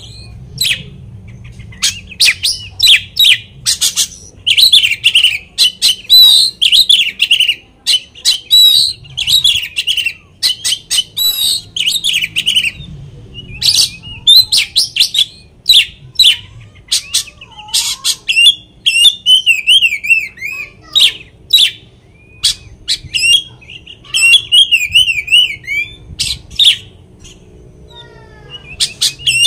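Oriental magpie-robin (kacer) singing loudly and without pause: a varied song of sharp chips, rapid trills and wavering warbled runs, packed with mimicked calls of other birds. It is the kind of song played as a lure to rouse other magpie-robins into singing.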